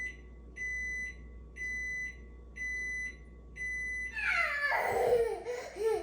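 An electronic beeper sounds four half-second beeps at one high pitch, about one a second. Then a child's high voice comes in, sliding down in pitch.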